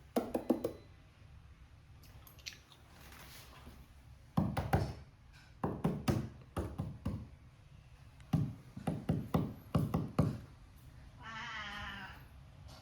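Clusters of quick knocks and taps, most of them about four to ten seconds in, then near the end a cat gives one short, wavering meow.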